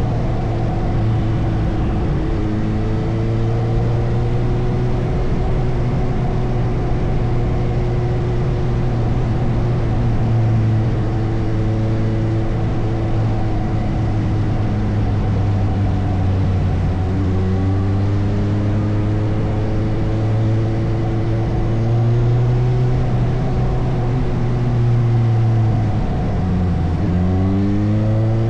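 Motorcycle engine running under way. Its pitch rises and falls with throttle and gear changes, drops sharply about three-quarters of the way through, then climbs again as it accelerates near the end.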